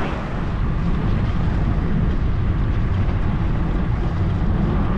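Steady low rumble of wind on the microphone and road noise while riding along at speed, with no distinct events.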